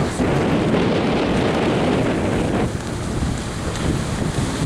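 Wind rushing and buffeting over the microphone of a moving bicycle, a loud, rough rumble that eases a little about two-thirds of the way through.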